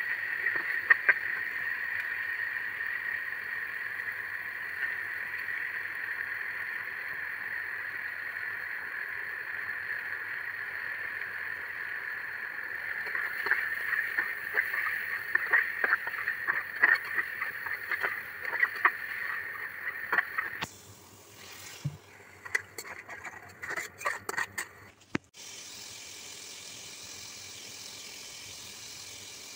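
Chicken and soya chunks frying in oil in an aluminium pan, a steady sizzle, with a metal spatula scraping and clacking against the pan as they are stirred, busiest in the middle. About two-thirds of the way through the sizzle drops off suddenly; after a few more scrapes only a quieter steady hiss remains as the pan steams.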